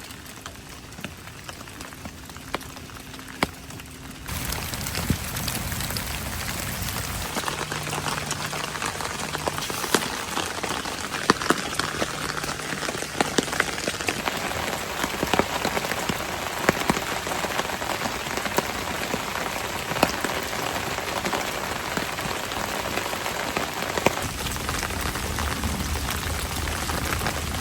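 Heavy rain falling steadily, with many sharp individual drop hits standing out from the hiss. It gets louder about four seconds in.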